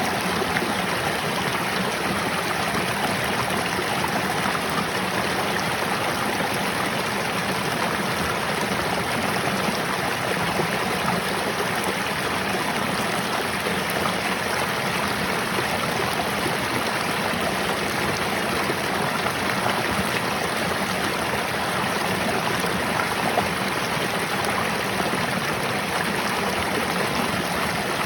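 Mountain stream flowing over rocks, a steady rushing and trickling of water without a break.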